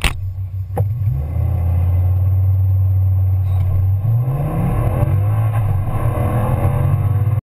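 Tuned 730 hp Audi RS6 engine under hard acceleration, a deep steady drone. About four seconds in the revs rise and then drop back, like a gear change, with a sharp click near the start.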